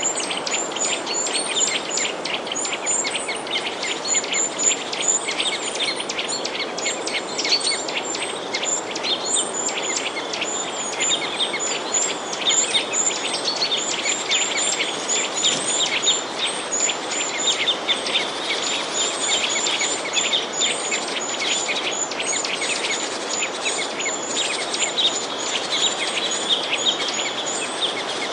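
Many small songbirds chirping without a break, with quick, high, repeated chirps overlapping one another, over a steady rushing hiss.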